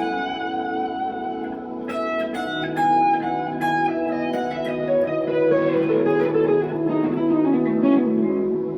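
A 1963 Fender Telecaster electric guitar played through a Glaswerks Zingaro amp, with single notes ringing out over held lower notes. A falling run of notes comes in the second half.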